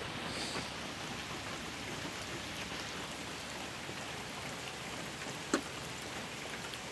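Steady rain falling, an even hiss, with one short click about five and a half seconds in.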